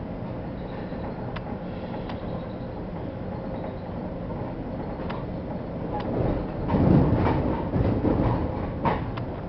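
Metra commuter train running, heard from on board: a steady rumble with scattered sharp clicks, growing louder and rattling for a few seconds about two-thirds of the way through.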